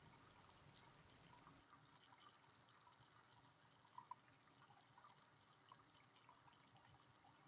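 Faint steady rain hiss with scattered water drops dripping, a pair of louder drips about four seconds in.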